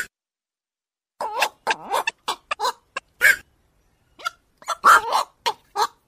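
Black-crowned night heron calls: about a dozen short, harsh barking calls in an irregular series, with a pause of about a second near the start and another around four seconds in, played as a lure call.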